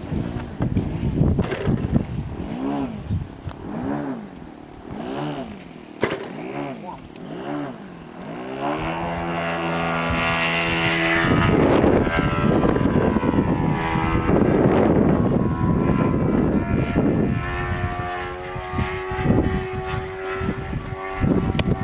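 Model airplane's fuel-burning engine and propeller running, revved up and down in quick, regular swells, then run up to a louder, steady high speed.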